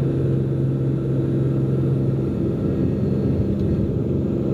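Cessna P210N's turbocharged six-cylinder engine running at climb power just after takeoff, a steady dense rumble. A steady hum in it cuts out about two seconds in.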